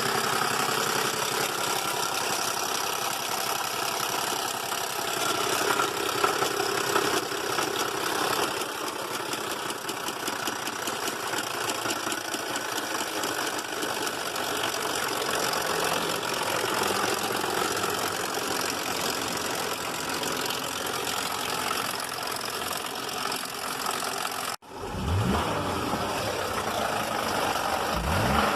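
GM 3.6 V6 in a Buick LaCrosse idling with a loud clatter from the upper half and a knock from the bottom end: rod knock, with the upper half possibly not oiling or the timing chain slipped. Near the end, after a brief break, the revs rise a few times.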